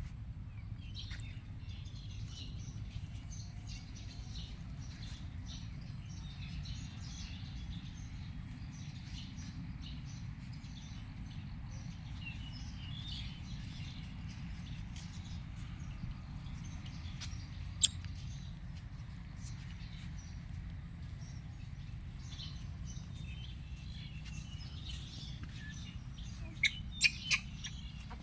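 Faint high chirps and ticks scattered over a steady low hum, with one sharp click about two-thirds of the way through and three quick loud clicks near the end.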